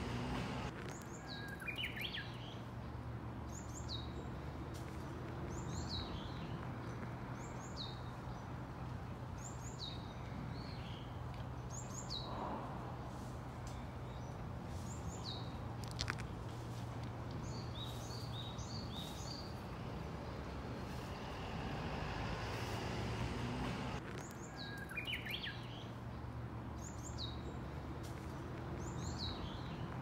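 Small birds calling: short, high chirps that fall in pitch, given singly and in quick little clusters throughout, over a steady low background hum.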